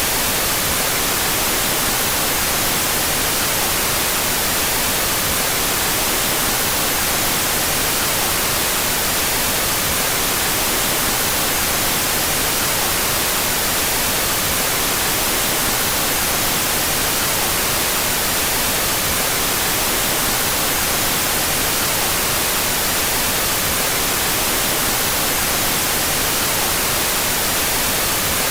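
Steady, unchanging white noise, generated with its two stereo channels out of phase.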